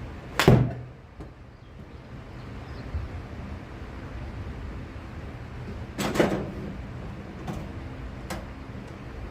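A heavy thump about half a second in and another about six seconds in, followed by two lighter knocks.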